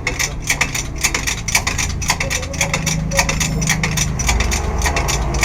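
Rapid, even mechanical clicking, about five to six clicks a second, over a steady low hum.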